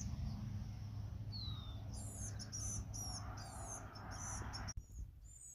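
A bird calling: a short falling whistle, then a run of quick, high chirps repeated about two seconds in, over a low rumble. The sound drops away suddenly near the end.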